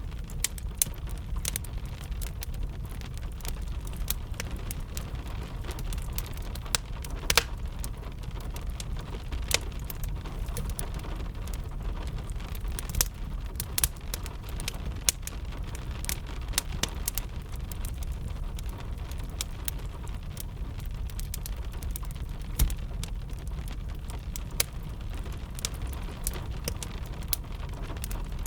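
Wood fire crackling with gentle rain: many sharp pops and crackles, a few louder ones, over a steady low rumble and a soft hiss of rain.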